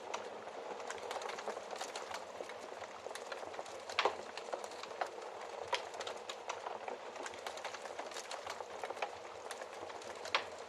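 Wood fire crackling in a fireplace: a steady hiss with frequent small pops and snaps, a louder pop about four seconds in and another near the end.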